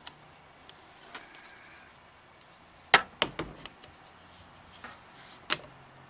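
A few sharp clicks and knocks from handling hard parts, the loudest about three seconds in, with a couple of lighter taps after it.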